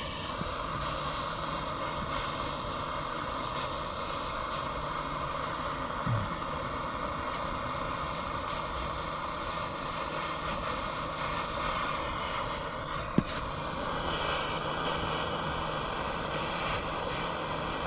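Handheld gas torch flame hissing steadily, turned up high to heat a copper pipe joint for soldering. A single sharp click comes about thirteen seconds in.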